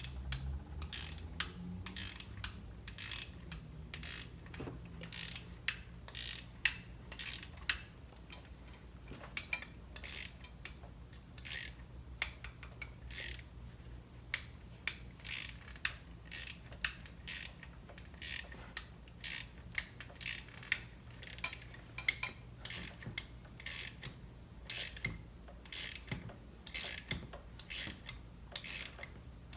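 Hand ratchet clicking in short, even strokes, a little over one click a second, as a tool is turned into a broken chainsaw bar stud to work it out, over a low steady hum.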